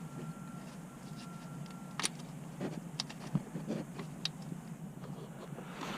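Faint scattered clicks and taps of hands and parts being handled in a car's engine bay while a starter and its wiring harness are fitted, over a low steady hum; a faint thin steady tone stops about two seconds in.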